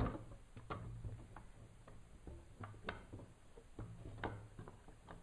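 Tools and plywood being handled: irregular light taps and clicks, a few of them sharper knocks.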